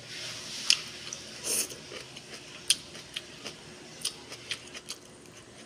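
A person chewing kimchi with wet mouth smacks and a string of short, sharp clicks, the loudest about a second and three seconds in, as wooden chopsticks pick at a plastic tub.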